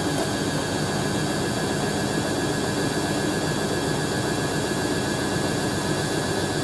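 Hoover A3060 Electronic 1100 washing machine spinning slowly at the start of a spin, the motor and drum running steadily with a steady whine as the heavy load of water is extracted from the wash.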